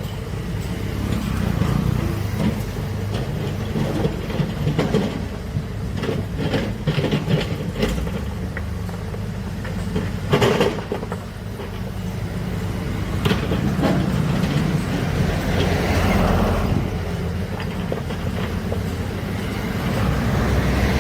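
Heavy excavator's diesel engine running steadily under load, with scattered sharp metal clanks and knocks and a swell of rushing noise about sixteen seconds in.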